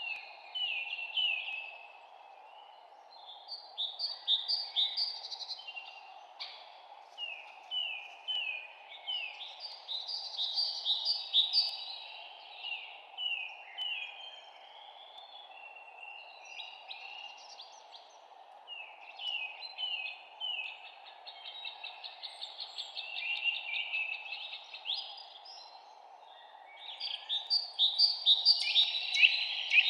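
Songbirds chirping and singing in repeated phrases of quick, falling notes, pausing now and then, over a steady low background hiss.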